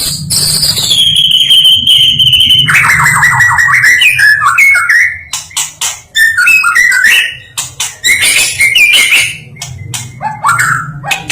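White-rumped shama singing: a long clear whistle that glides down in pitch and holds, then a fast trill and a run of varied chirps, whistles and sharp clicks with brief pauses between phrases.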